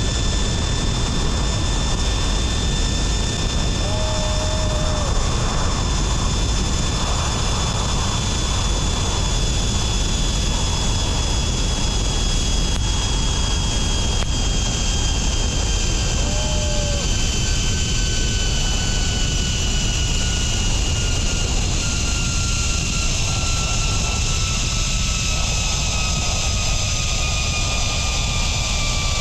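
Zipline trolley pulleys running fast along the steel cable with a steady high whine that slowly falls in pitch near the end, over heavy wind rushing across the microphone.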